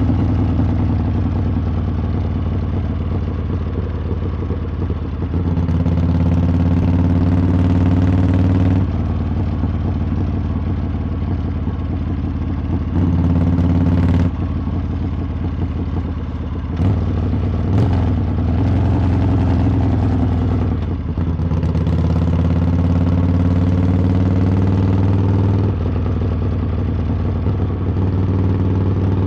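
Harley-Davidson V-twin motorcycle exhaust under way. The engine note climbs twice under throttle for several seconds and drops back each time, with a few sharp clicks near the middle.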